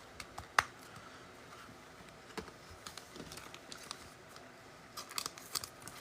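Sparse light clicks and taps of trading cards being handled and set down, with one sharper click about half a second in and a few quick taps near the end.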